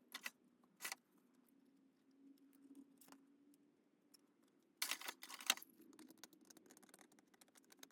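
Light handling sounds of craft supplies on a work table: two soft clicks early, then a short clatter and rustle about five seconds in, over a faint steady hum.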